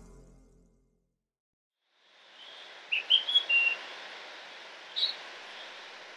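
Music fades out into silence; about two seconds in, a soft outdoor background hiss fades in with birds chirping: a quick run of three or four short high notes around three seconds in and a single chirp near five seconds.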